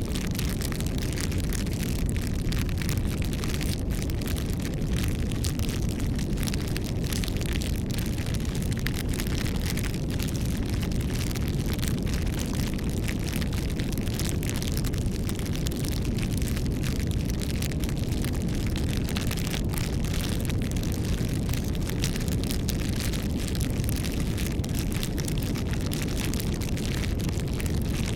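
Campfire burning: a steady low rush of flames with frequent small crackles and pops from the burning wood.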